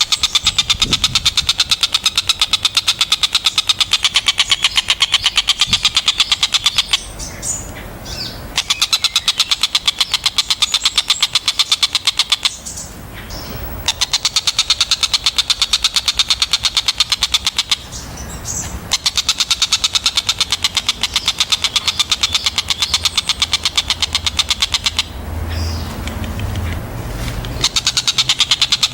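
A tengkek buto kingfisher gives a fast, high, rattling chatter of evenly repeated notes. The chatter comes in long bursts of several seconds, with short pauses between them, repeated about five times.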